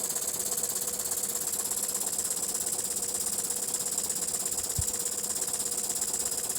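Jensen 50 toy steam engine running steadily on one heater, chugging at a slow, even speed with a fast regular beat over a steady hiss.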